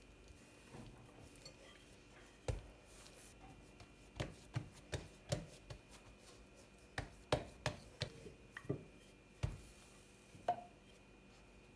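Knife chopping on a cutting board: about a dozen sharp, irregular knocks, some in quick runs, with short pauses between.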